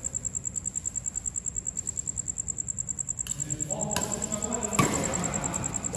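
An insect trilling steadily in a high, rapidly pulsing chirp, several pulses a second. Voices join a little over halfway through, and there is one sharp knock near the end.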